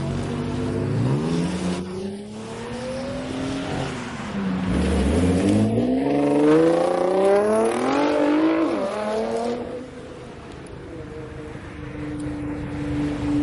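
Car engine accelerating hard: its pitch climbs, drops back once at a gear change, and climbs again. It then eases off to a quieter steady hum.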